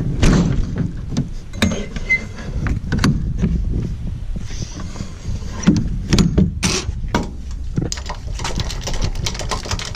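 Irregular clicks, clanks and rattles of hands working a tie-down strap and a trailer hitch, over a steady low rumble.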